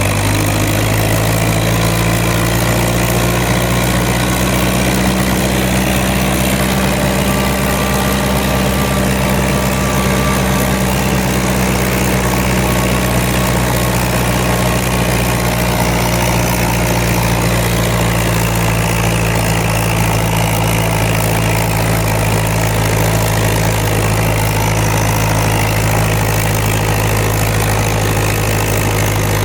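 International Harvester 574 tractor's four-cylinder gas engine running at a steady speed, purring evenly with no misfire on its new Pertronix electronic ignition.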